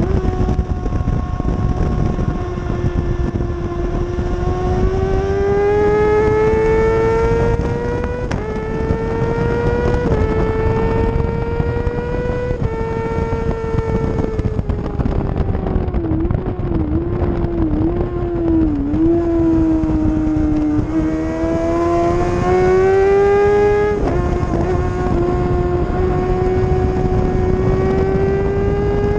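600cc inline-four sport bike racing at high revs, rising in pitch through several quick upshifts, then dropping with a run of short throttle blips on the downshifts under braking about halfway through, then accelerating again through another upshift. Heavy wind rush runs beneath the engine.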